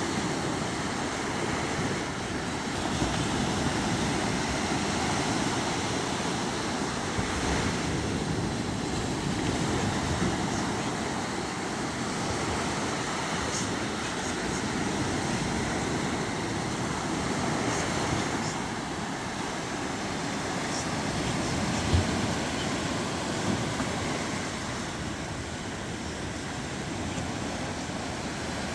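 Sea surf washing steadily with wind on the microphone, with a single knock about twenty seconds in.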